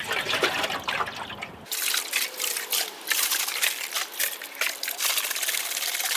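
Apple cider vinegar pouring from a bottle into a rusty steel motorcycle fuel tank, trickling and splashing. It turns brighter and splashier about two seconds in.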